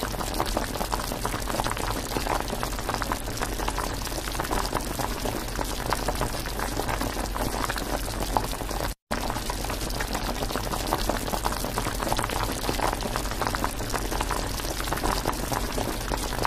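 Clams cooking in a miniature wok, the broth bubbling and crackling steadily, cut off briefly about nine seconds in.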